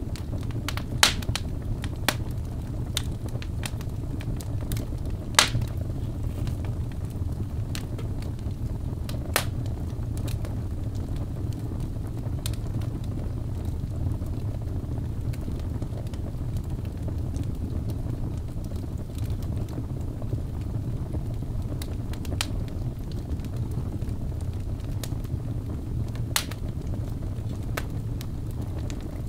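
Birch-log fire burning in a fireplace: a steady low rumble of the flames with scattered sharp crackles and pops, the loudest about five seconds in.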